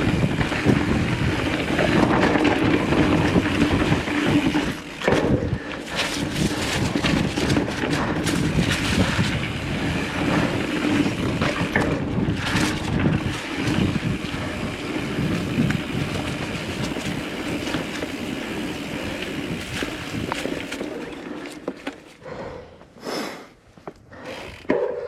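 Mountain bike ridden on a dirt trail: tyre roll, frame and chain rattling over bumps, and wind on the microphone. It quietens about 21 seconds in, leaving a few separate clicks and knocks near the end.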